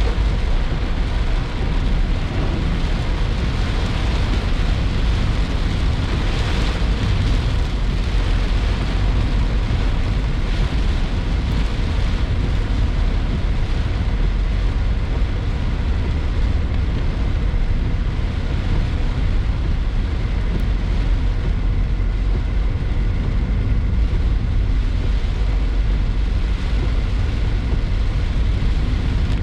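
A car driving on wet roads in the rain, heard from inside the cabin: a steady rumble of road and engine noise with the hiss of rain and tyre spray.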